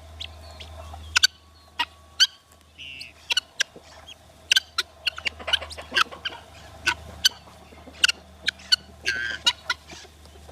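Domestic poultry clucking: a rapid scatter of short, sharp clucks, with two longer calls about three seconds in and again about nine seconds in.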